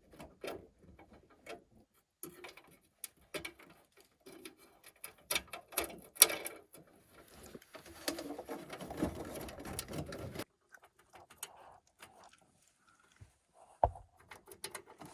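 Hand-tool work in a furnace cabinet: irregular clicks, taps and scrapes of a stubby screwdriver and screw against sheet metal as the screw is worked into a cramped spot. There is one sharper knock about six seconds in and a couple of seconds of denser rustling and scraping around eight to ten seconds in.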